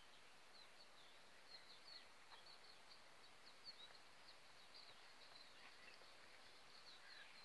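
Faint birdsong: many short, high chirps scattered over a steady hiss.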